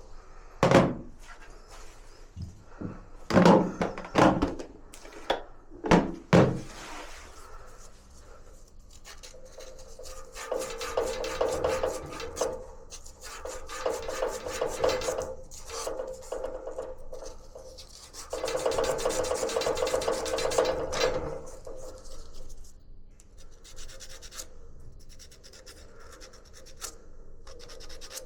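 Hand work on gas water heater parts: a series of sharp knocks, then long stretches of rubbing and scrubbing. The loudest scrubbing comes about two-thirds of the way through.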